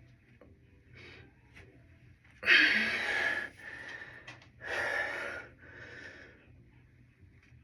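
A person breathing hard: three heavy, noisy breaths about a second long, the first, a little over two seconds in, the loudest.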